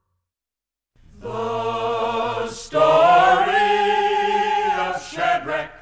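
Several voices singing long held chords without accompaniment, starting about a second in, with two short notes near the end.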